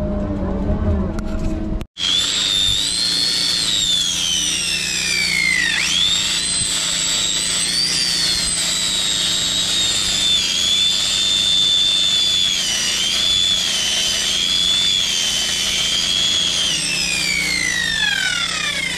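After a steady machine hum cut off abruptly about two seconds in, a high-speed power tool, most like an angle grinder, runs with a loud high whine that dips and wavers as it is pressed into the metal, then winds down in pitch near the end.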